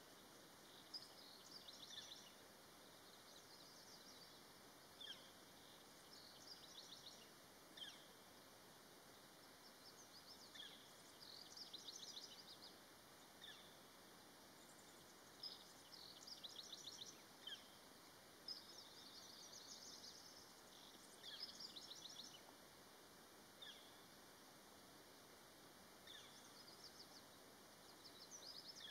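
Faint birdsong: short, high chirps and rapid trills come every second or two over a steady hiss.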